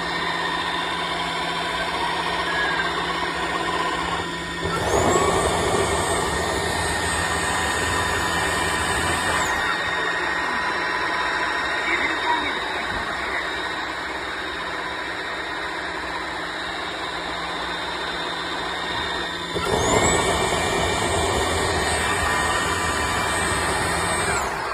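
Tineco Floor One S5 wet-dry vacuum running its self-cleaning cycle: a steady motor hum. Twice the motor speeds up with a rising high whine, runs louder for about five seconds, then drops back.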